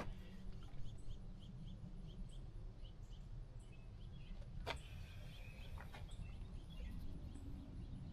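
Faint outdoor ambience: a steady low rumble with a small bird chirping over and over, about three short chirps a second, and a single sharp click about halfway through.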